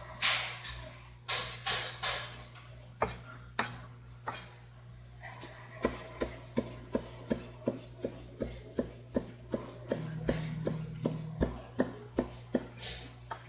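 Knife slicing a whole flounder bone-in for sekoshi sashimi on a cutting board: a few scattered knocks and scrapes, then from about halfway a steady run of quick chops, about three a second, with a low steady hum underneath.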